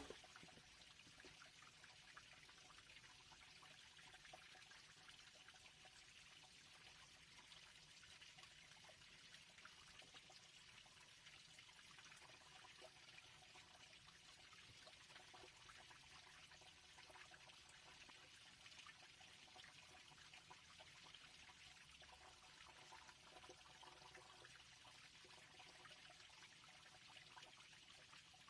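Near silence: a faint, steady hiss with tiny scattered ticks.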